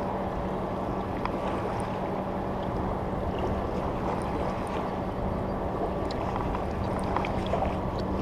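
A steady low hum over a constant wash of moving water and wind noise, with a few faint scattered clicks.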